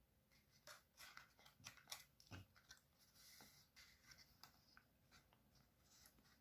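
Faint rustling and crinkling of paper being handled and creased, a quick run of small crackles in the first half, then scattered softer ones.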